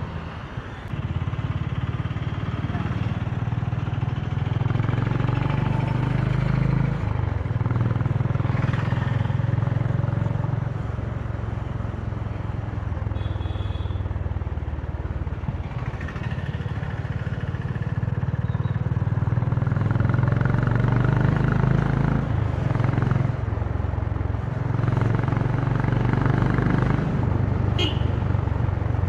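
Honda CB350's single-cylinder engine and exhaust running under way, the engine note rising and falling several times as the throttle opens and closes. A brief high beep sounds about halfway, and a short sharp tone near the end.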